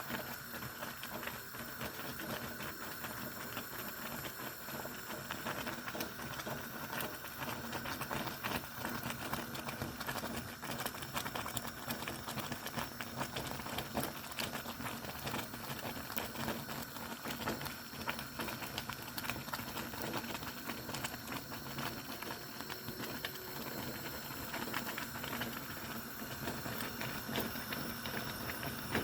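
Thick sorghum-meal sadza boiling in a pot, bubbles bursting through the stiff porridge in a steady run of small pops and splutters.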